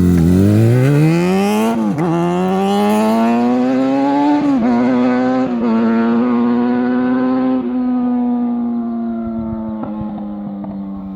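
Yamaha FZ6N's inline-four through an Ixil aftermarket exhaust, accelerating hard. The note rises in pitch through the gears, with quick shifts about two seconds and four and a half seconds in. It then holds a near-steady note that grows fainter and duller.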